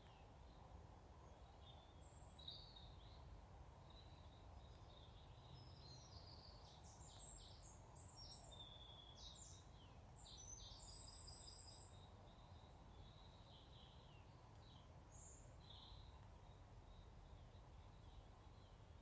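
Faint, scattered bird chirps and calls over a low, steady outdoor background rumble, the calls busiest in the middle.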